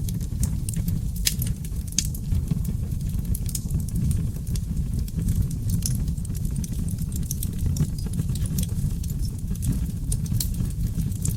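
Wood fire burning in a fireplace, seasoned oak logs: a steady low rumble of flames with scattered crackles and sharp pops at irregular intervals.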